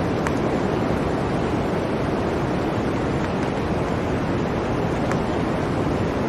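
Steady blizzard wind, a dense low rushing that holds an even level throughout, with a couple of faint ticks.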